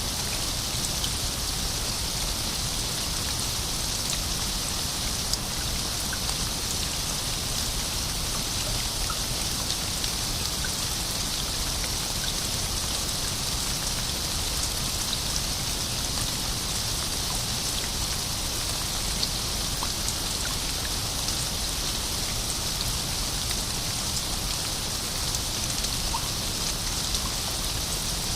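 Steady rain falling, an even hiss of raindrops on a surface with scattered faint drop ticks.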